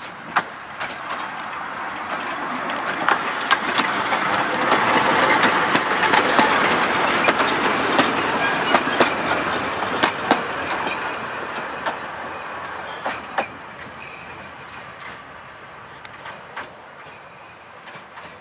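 Narrow-gauge steam train passing with its carriages: steady running noise and repeated sharp clicks of wheels over rail joints. It grows louder to a peak about six seconds in, then fades as the train moves away.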